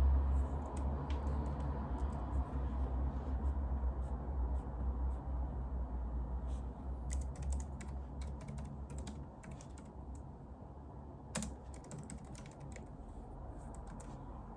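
Typing on a computer keyboard: quick runs of key clicks, thickest in the second half, with one louder key strike, over a steady low hum.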